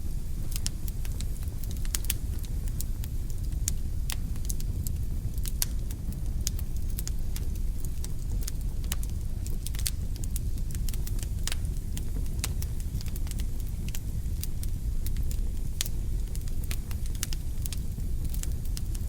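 Wood logs burning in a fireplace: frequent sharp, irregular crackles and snaps over a steady low rumble of the fire.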